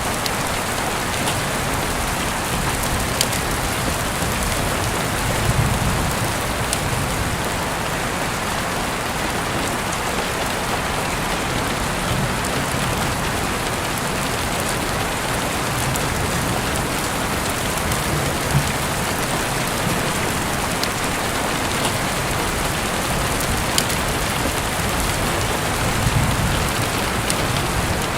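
Steady heavy rain falling on a surface, an even hiss with a few sharp clicks scattered through it.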